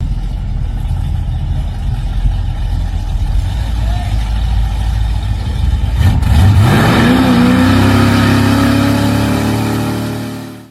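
A car engine idling with a low rumble, then revved up hard about six seconds in and held at high revs before the sound fades out near the end.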